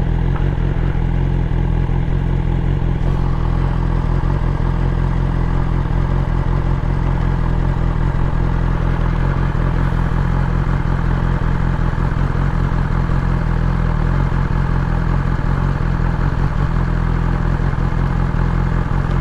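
BMW S1000XR's inline-four engine running steadily at an even engine speed, with no revving.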